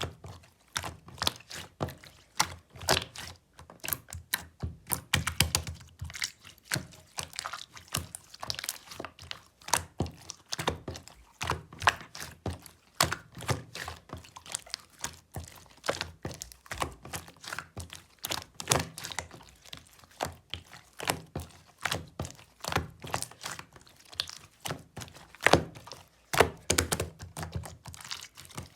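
Melted clear slime being squeezed and pressed by hand, making a quick, irregular run of small clicks and pops.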